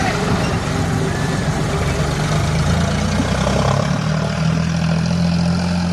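John Deere tractor engine running steadily with a deep, even drone; its note settles into a steadier hum about four seconds in.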